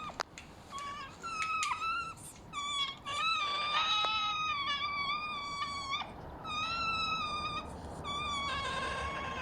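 An animal giving a series of long, steady, high-pitched calls, each held for a second or more with slight wavers in pitch and short breaks between them, with a few sharp clicks in the first two seconds.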